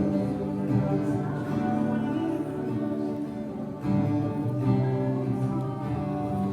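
Live worship music: acoustic guitar strummed under sustained singing voices, with a fresh strum about four seconds in.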